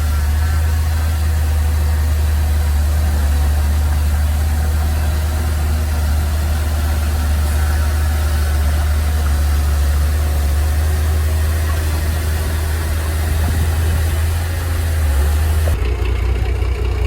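Heavy machinery's diesel engine running steadily with a strong low hum. Near the end the sound changes abruptly and turns duller.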